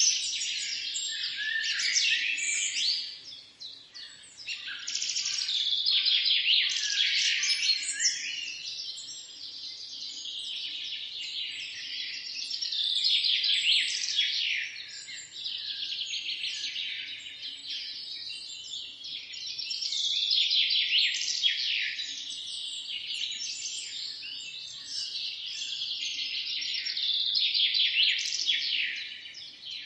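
Many songbirds singing and chirping at once in a dense, continuous chorus of high, overlapping trills and chirps, with a brief lull about three seconds in.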